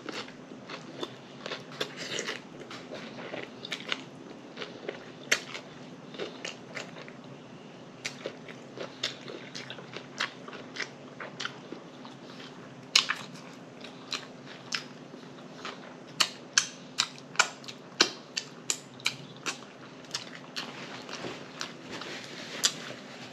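Close-miked mouth sounds of someone biting into and chewing a soft, sloppy bun-less double cheeseburger, with wet lip smacking. The smacks come in quick runs, loudest in the second half. A faint steady hum sits underneath.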